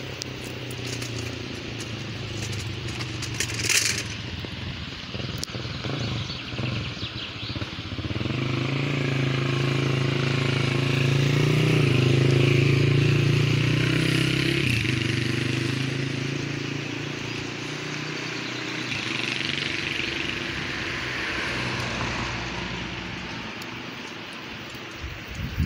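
A motor engine's hum that grows louder, peaks about halfway through, then fades away.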